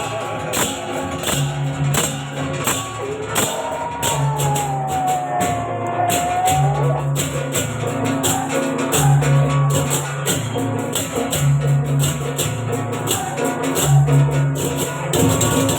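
Loud parade music carried by fast, steady strokes of clashing metal percussion over a low note that repeats about every second and a half. About four seconds in, a pitched line slides down and back up.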